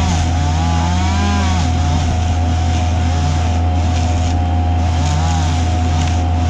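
Engines of tree-work machinery running: a steady low drone and whine, with an engine revving up and down about once a second.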